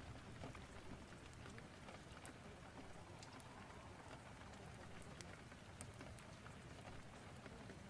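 Faint, steady rain ambience with scattered sharp ticks.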